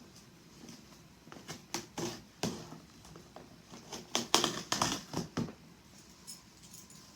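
Packaging of a newly delivered item being handled: a run of sharp clicks, knocks and brief rustles, busiest about four to five and a half seconds in.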